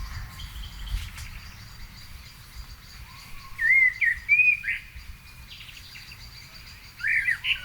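Garden songbirds singing in the evening, with loud warbled phrases about halfway through and again near the end. A faint, steady high-pitched tone and a low rumble sit underneath.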